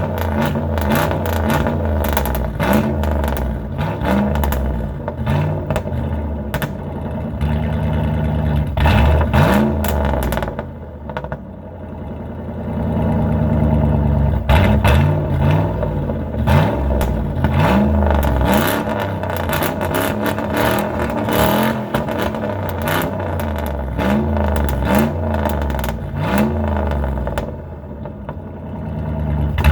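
Straight-piped 318 small-block V8 with headers and a mild cam, running through a single exit during a cold start and blipped repeatedly, each rev rising and falling in pitch. The revs drop to a quieter idle around eleven seconds in, then the blipping resumes.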